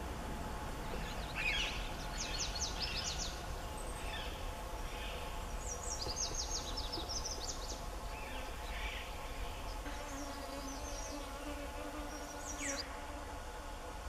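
Birds giving short bursts of rapid, high-pitched chirps, four or so bursts a few seconds apart, over a steady droning background.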